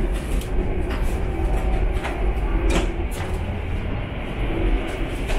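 Cabin running noise of a high-speed EMU train under way: a steady low rumble with several scattered clicks and knocks, heard from the gangway between cars.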